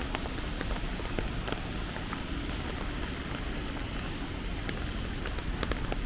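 Steady rain falling, with many scattered sharp ticks of individual drops striking close by.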